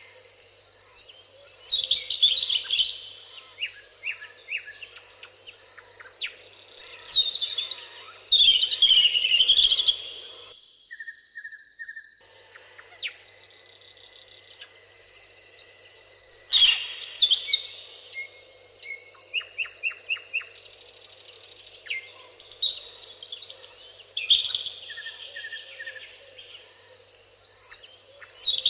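Several songbirds singing and chirping in short bursts of warbling phrases, over a steady thin high-pitched background tone. The background cuts out for about two seconds near the middle.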